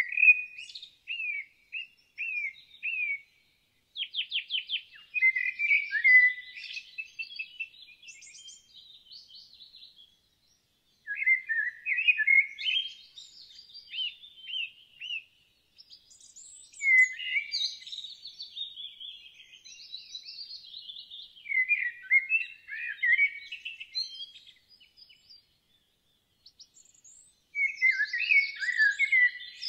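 Songbirds singing: bouts of quick chirps, warbles and trills a few seconds long, with short pauses between them.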